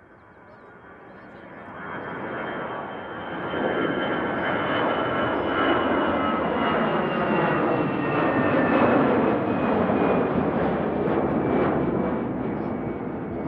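Airbus A320-200 twin jet passing close by. Its engine noise swells over the first few seconds, holds loud, then begins to ease, and a high whine falls slowly in pitch as it goes by.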